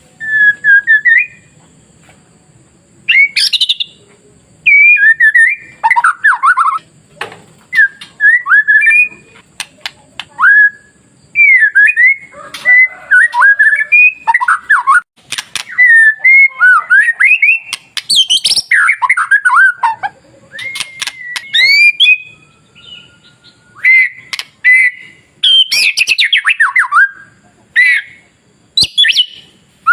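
White-rumped shama (murai batu) singing: loud, varied whistled phrases of quick rising and falling notes, broken by short pauses.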